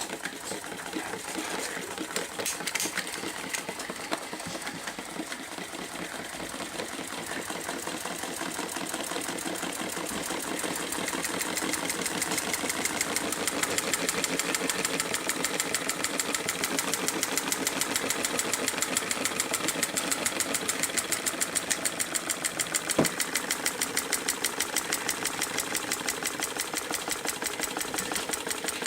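Homemade mechanical Stirling hot-air engine running with a fast, even, rhythmic mechanical clatter. It grows louder over the first dozen seconds or so, then runs steadily, with one sharper knock about two-thirds of the way through.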